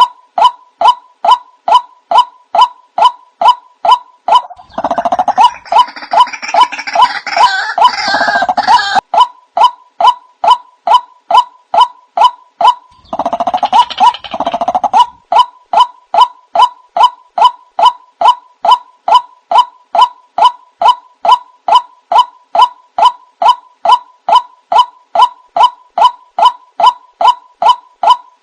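Recorded call of a white-breasted waterhen played as a bird lure: the same call note is repeated about three times a second. Two harsher, noisier stretches come in, one around a quarter of the way through and one near the middle.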